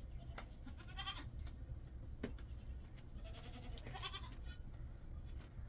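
Goat bleating twice, a short call about a second in and a longer one past the middle, over a low steady rumble.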